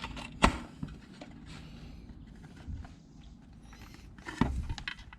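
Hand work on a motorcycle's carburetor area: a sharp click about half a second in, a few lighter knocks, and a louder cluster of knocks near the end, over a low steady hum.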